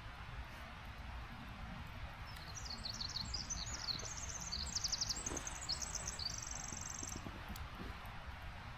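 A small songbird singing a rapid run of high chirps and trills for about five seconds, ending in a fast even trill, over a steady low outdoor rumble.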